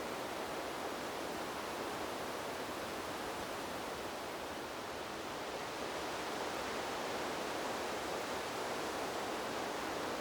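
Wind blowing through trees as a steady, even rushing noise with no distinct gusts, swelling slightly about six seconds in.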